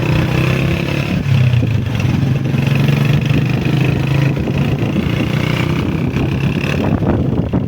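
Honda CG125's single-cylinder four-stroke engine running at a steady pitch while the motorcycle is ridden.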